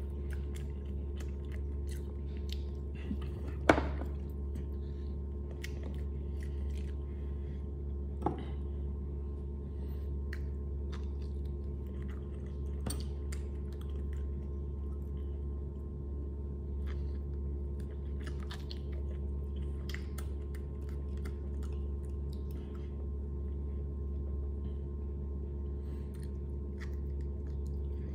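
A person chewing and eating by hand close to the microphone, with many small scattered mouth clicks. Two sharp knocks come about 4 and 8 seconds in, the first the loudest sound, over a steady low hum.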